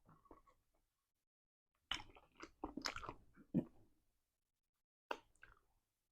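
Close-miked eating sounds of a person eating eba with soup: short chewing and mouth noises in a cluster between about two and four seconds in, with a couple more about five seconds in.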